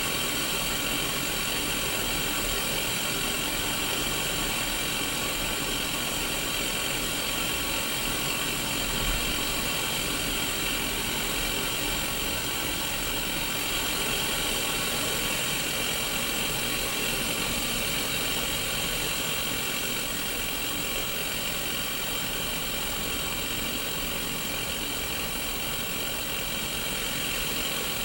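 Sony Mega Watchman black-and-white mini CRT TV hissing with static: a steady, even white-noise hiss.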